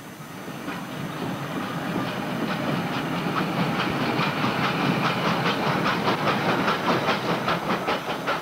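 Railway train rolling along the track, its wheels clacking rapidly over the rail joints, growing louder over the first few seconds.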